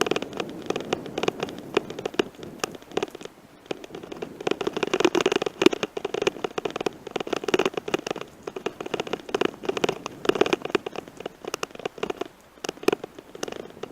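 Bicycle tyres crunching over a gravel forest road, with the bike rattling: dense, irregular crackling and clicking that swells and fades.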